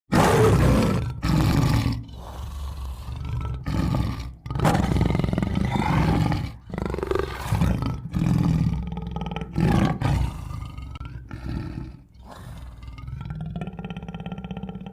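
Tiger roaring and growling in a run of loud, deep calls with short breaks between them, the loudest at the start; near the end it turns into a fast rattling growl.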